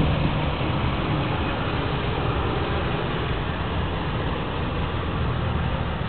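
Stretch Lincoln Navigator limousine's V8 engine idling: a steady low hum under an even hiss, with no change in speed.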